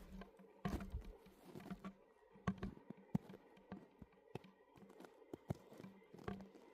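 Slow, careful footsteps crunching on frozen snow and ice, a few irregular crunches spaced out, the loudest about a second in.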